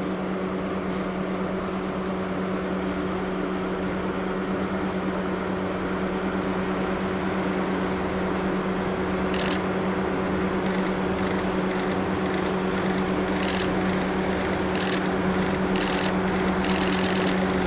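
DD51 diesel locomotive running with a steady low engine drone that grows slowly louder as the train draws nearer. From about halfway a series of sharp clicks joins in.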